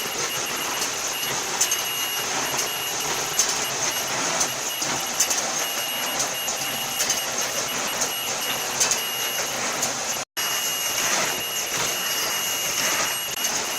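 Automatic PP mesh bag cutting and sewing machine running steadily, with rapid irregular clicks and a high whine that comes and goes. The sound cuts out for an instant about ten seconds in.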